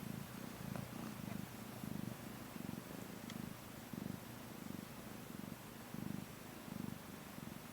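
Domestic cat purring during labour: a low, continuous purr that swells and fades in a regular rhythm, about three swells every two seconds.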